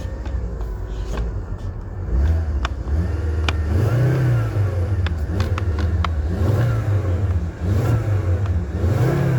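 Car engine revved in a run of quick blips, its pitch rising and falling again about once a second, with short sharp clicks in between.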